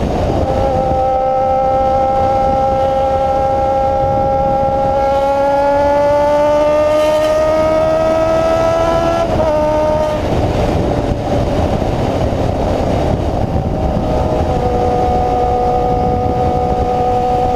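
Honda CB-1 400 inline-four with an open, free-flowing exhaust, running loud at held revs. The engine note climbs slowly for several seconds, drops back about halfway through, then holds steady again.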